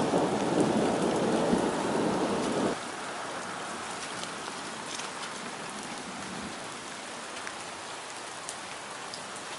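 Heavy rain falling, a steady hiss with scattered ticks of single drops. A louder, deeper rush of noise in the first few seconds stops abruptly about three seconds in, leaving the thinner rain hiss.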